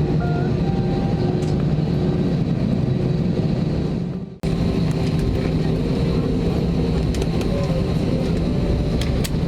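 Steady cabin noise inside an Airbus A320 airliner: a constant low hum of the engines and air conditioning. It drops out abruptly for a moment about four and a half seconds in, then carries on unchanged.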